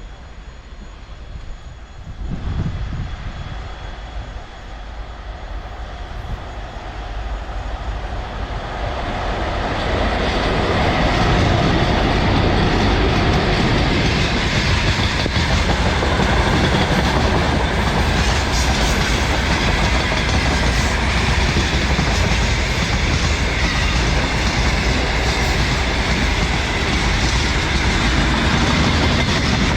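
Freight train hauled by a VL11M two-section electric locomotive approaching and passing. The sound grows louder over the first ten seconds, then holds a steady loud rolling of wagons going by.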